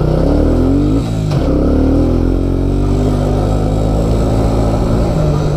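Suzuki QuadRunner 250 4x4 ATV's single-cylinder four-stroke engine accelerating under load. The revs rise, dip briefly about a second in as it shifts up a gear, climb again, then settle to a fairly steady pitch.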